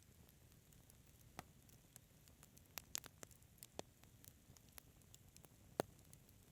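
Wood fire in a fireplace crackling softly: scattered sharp pops and snaps over a faint hiss, with a small cluster in the middle and the loudest single pop near the end.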